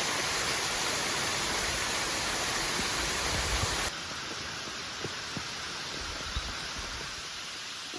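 Steady rushing noise of falling water that cuts off abruptly about four seconds in, giving way to a quieter, thinner water rush with a few light knocks.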